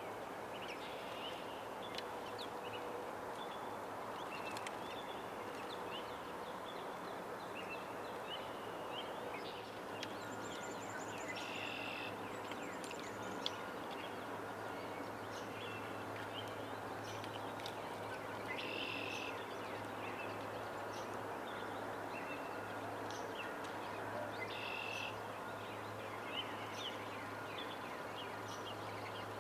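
Backyard birds chirping and calling over steady background noise, with short scattered chirps and a louder call repeated about every six or seven seconds. A steady low hum runs underneath.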